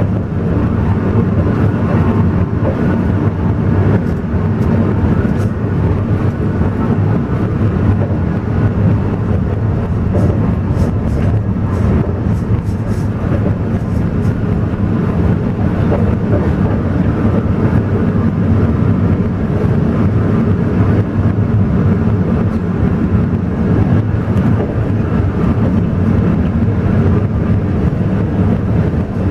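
Alishan Forest Railway train running, a steady low rumble with no breaks.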